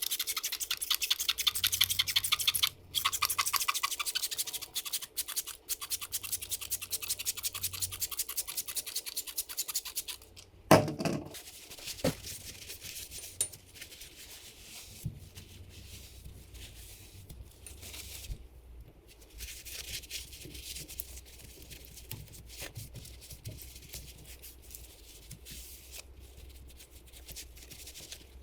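Rapid back-and-forth scrubbing on a Honda CRF150R engine's grimy casing, a fast steady rhythm for about ten seconds. Then comes a single loud knock, and quieter, intermittent scrubbing and handling.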